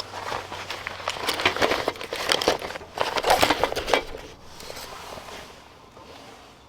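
Crinkling, crackling rustle of something being handled, in irregular bursts for the first four seconds or so, then dying away.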